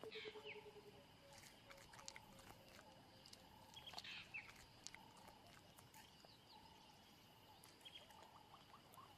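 Faint bush ambience of wild animal calls: a fast pulsed trill that fades out within the first second, short high falling bird-like calls near the start and again about four seconds in, and scattered faint clicks.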